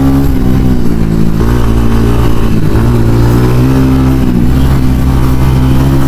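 TVS Ronin 225's single-cylinder engine running under way, heard from the rider's seat, its pitch dipping and rising a few times as the throttle is rolled off and on.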